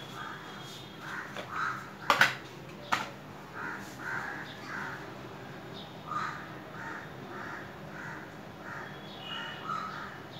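A bird calling over and over in short calls, two or three a second in runs. A few sharp taps about two and three seconds in are the loudest sounds.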